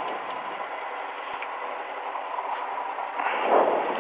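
Ford Escort rally car's engine idling, heard from inside the cabin, with a small click about a second in and a brief swell of noise near the end.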